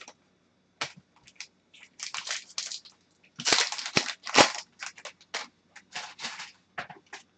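Hockey trading cards and their packaging being handled at close range: a run of sharp clicks and rustling snaps as cards are flipped and slid against each other. The sounds are loudest about halfway through.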